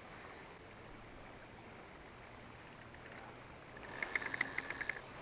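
Fishing reel ticking rapidly, about eight ticks a second for just over a second near the end, over a faint steady outdoor background.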